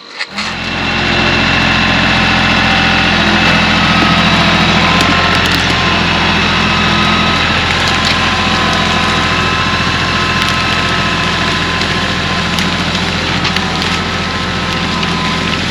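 Tractor engine running at a steady speed, building up over the first second and then holding an even pitch.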